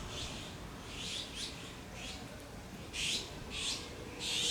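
Meerkats giving short, high-pitched squeaking calls, about seven in quick succession; the loudest come about three seconds in and at the end.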